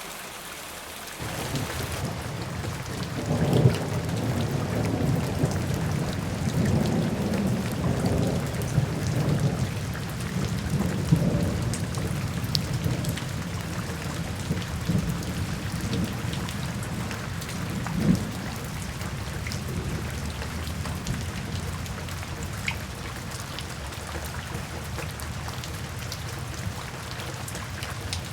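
Steady rain with low rolling thunder. The rumble comes in suddenly about a second in, swells loudest a few seconds later, and eases off gradually toward the end.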